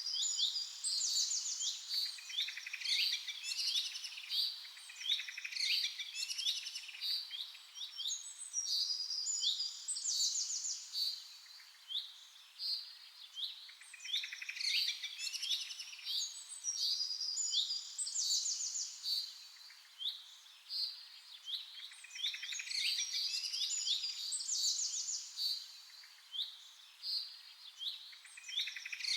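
Several small birds chirping and trilling together in a busy chorus of quick, high-pitched notes. The chorus swells and thins in waves, quieter for a moment about twelve and twenty seconds in.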